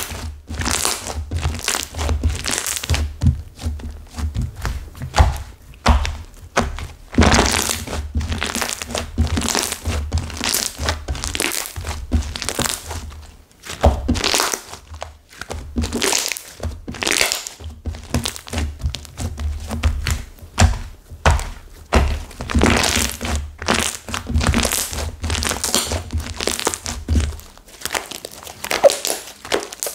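Hardened flora slime, a slime with clay mixed in that has set stiff and crunchy, being squeezed and kneaded by hand. It crackles and crunches continuously and irregularly, with many dull thumps of the mass pressed against the surface.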